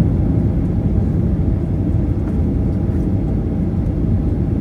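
Steady low rumble of a vehicle running, even and unbroken.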